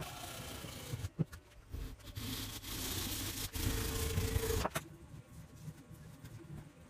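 A power tool running against wood, loudest in the middle and cutting off abruptly about two-thirds of the way through.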